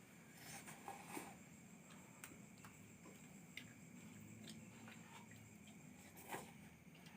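Near silence: faint, irregular clicks and taps over a low steady hum, the clearest tap near the end.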